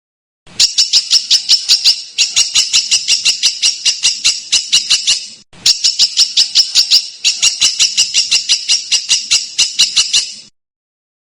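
A songbird's rapid, harsh song: a dense train of sharp, scratchy notes at about five a second, with a short pause midway.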